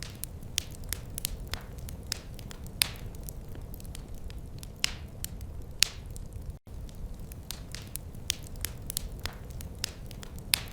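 Wood fire burning in a fireplace: a steady low rumble under irregular sharp crackles and pops, several a second. The sound cuts out for a split second about two-thirds of the way through.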